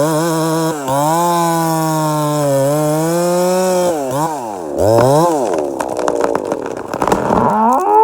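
Two-stroke chainsaw held at high revs for about four seconds, then revved up and down in quick throttle blips, with a final rise in pitch near the end.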